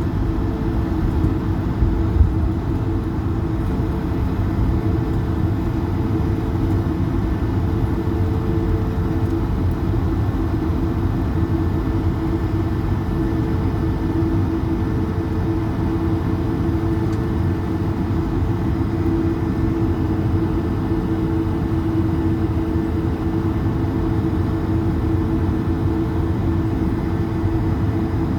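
Airbus A220 jet heard from inside the cabin: a steady drone of its Pratt & Whitney geared turbofan engines over a deep rumble, with a held hum, at an unchanging level.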